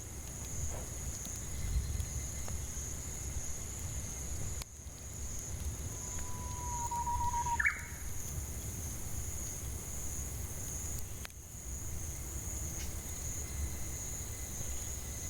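Cicadas droning in a steady high-pitched whine. Around the middle a bird gives one whistled call: a long, slightly falling note that ends in a quick upward sweep.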